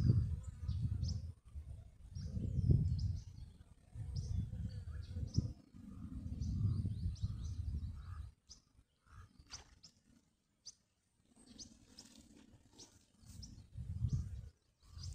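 Small birds chirping in short, repeated calls, over low rumbling swells that come and go about every two seconds, drop away about halfway through, and return briefly near the end.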